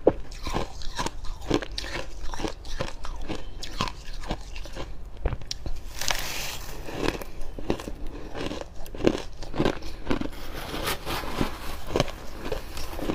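Freezer frost being bitten and chewed close to the microphone: a dense run of dry, crisp crunches, with a brighter, hissier crunch about six seconds in.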